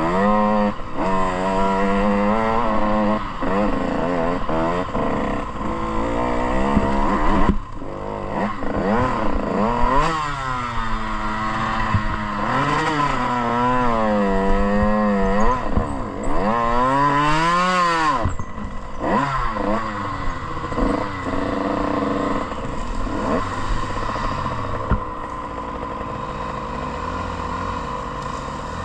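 Motocross bike engine revving up and falling back over and over as the throttle is opened and shut, with scattered knocks and rattles. It drops to a quieter, steadier run near the end.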